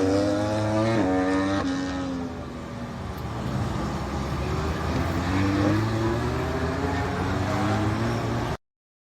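Motorcycle engine slowing with two quick jumps in pitch like downshifts, then accelerating with rising revs; the sound cuts off suddenly near the end.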